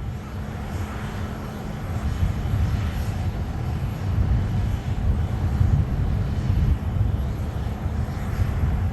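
Boeing C-17 Globemaster III's four turbofan jet engines, a deep rumble that slowly grows louder.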